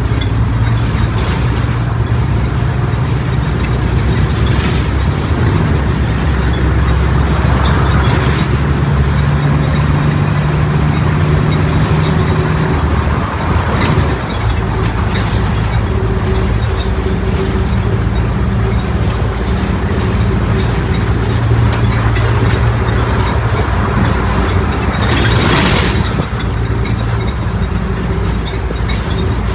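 Mercedes-Benz OF1722M bus engine and drivetrain running on the move, the engine note changing about thirteen seconds in. Brief noisy bursts come at about four and eight seconds in, and a stronger one near the end.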